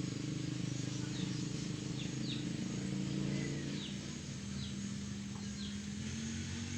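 Small birds chirping, short high chirps every second or so, over a steady low hum.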